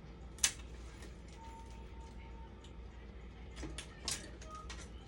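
A few sharp small clicks and taps, the loudest about half a second in and several more near the end, over a low steady hum: tools and parts being handled during hands-on repair work.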